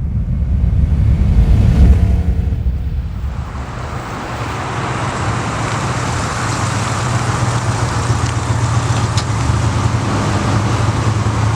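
1990 Chevrolet C/K pickup truck driving, its engine running under steady tyre and road noise. A low rumble is loudest about two seconds in, then settles into a steady hum with hiss.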